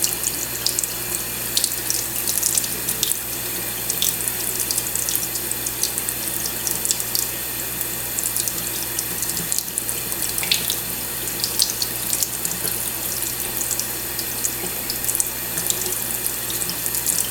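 Kitchen sink tap running steadily, the stream spattering over a cockatiel held under it for its bath.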